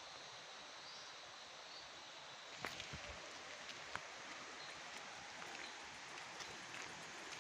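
Waterfall water rushing in a steady hiss, with a few light clicks about three seconds in.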